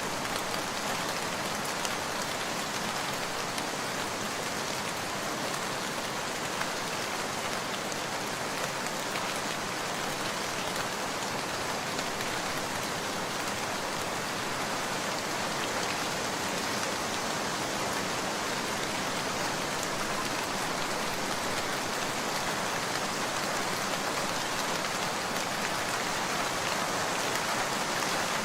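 Steady rain falling, a dense, even hiss with a few faint ticks.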